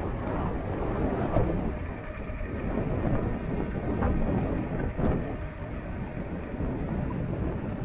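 Wind buffeting the microphone and road noise while riding an electric bike: an uneven rushing that rises and falls, with a couple of brief knocks near the middle.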